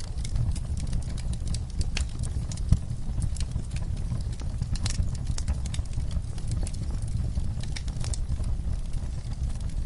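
Wood fire crackling in a fireplace, with irregular sharp pops and snaps over a steady low rumble, mixed with soft steady rainfall.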